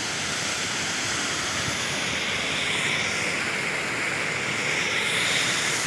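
Water rushing steadily out through a breach in the bank of a small canal.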